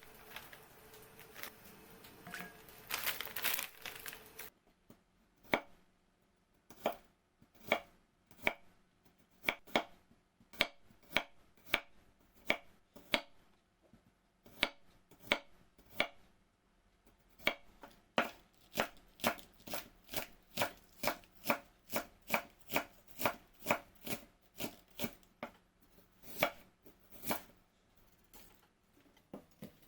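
Knife chopping food on a cutting board, in steady strokes that speed up to about two a second, with a few short pauses. A brief rustling noise comes before the chopping starts.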